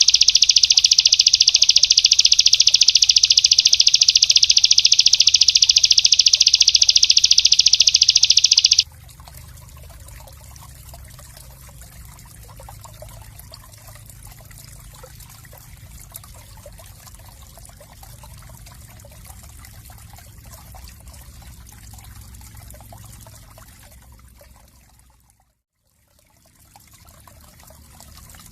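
A small songbird's fast, dense, high-pitched trill, the rapid 'tembakan' bursts used in bird-training master recordings, loud and unbroken until it cuts off suddenly about 9 seconds in. After that there is only a faint trickling, water-like noise with a low hum, which fades out briefly near the end.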